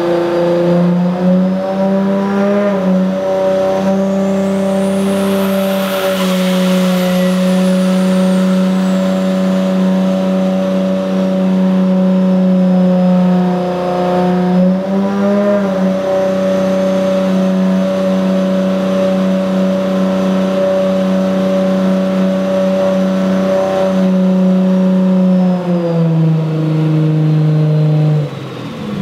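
Turbocharged 1.5JZ inline-six running under load on a Dynapack hub dyno, held at a steady engine speed for long stretches as in steady-state tuning, with brief pitch changes about three and fifteen seconds in and a drop near the end. A faint high whistle rises and falls a few seconds in.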